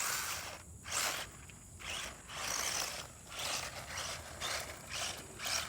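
Traxxas 1/16 Slash RC truck's electric motor and drivetrain whirring in short, irregular throttle bursts.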